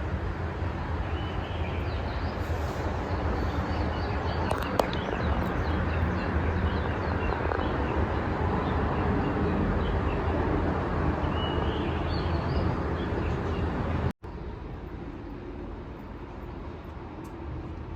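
Small birds chirping now and then over a steady low rumble of outdoor background noise. A little after halfway the sound drops out for an instant and comes back quieter.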